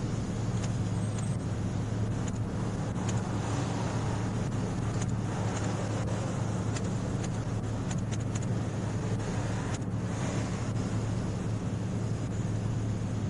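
Steady low hum of an idling car, with faint scattered clicks now and then.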